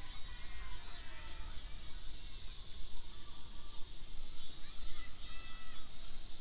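Outdoor park ambience: short bird calls over a steady high hiss, with a low rumble underneath.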